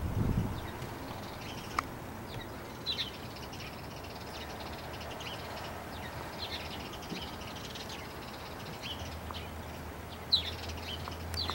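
Crows calling outdoors: short caws scattered through, over steady outdoor background. A low bump comes right at the start and a sharp click about ten seconds in.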